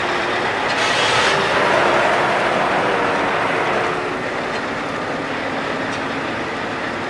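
Heavy trucks rolling past, a steady mix of diesel engine noise and tyre rumble, with a brief hiss about a second in.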